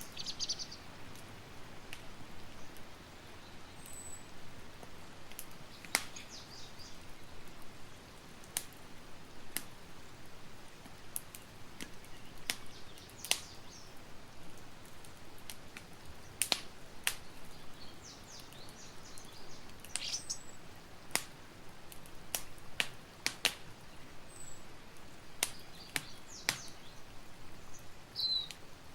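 Campfire crackling, with irregular sharp pops of varying loudness over a soft steady hiss, and a few faint bird chirps now and then.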